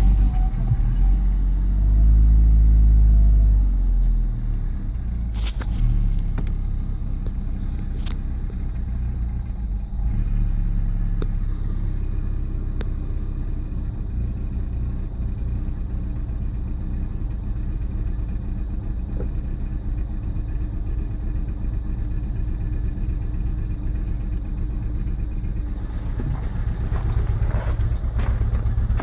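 Volkswagen Golf Mk4 1.6 four-cylinder petrol engine running cold just after starting: the revs flare up for a couple of seconds, then settle to a steady idle. The cold-running fault it shows was cured by replacing the four intake manifold gaskets.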